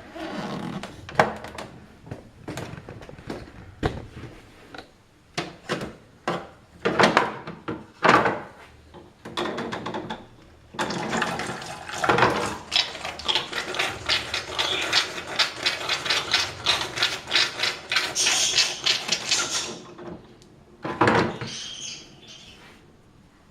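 Saeco MonteCarlo Automatica espresso machine's built-in grinder grinding coffee beans: a loud, rasping rattle that runs for about nine seconds before stopping. Before it come scattered knocks and clicks, and a short burst of noise follows near the end.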